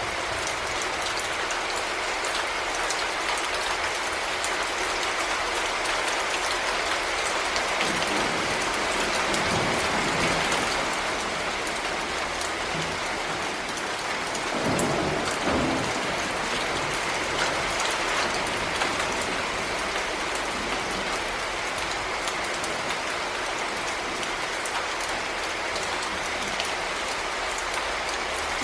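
Heavy rain falling steadily, pattering on a surface, with low rumbles swelling about eight seconds in and again about fifteen seconds in.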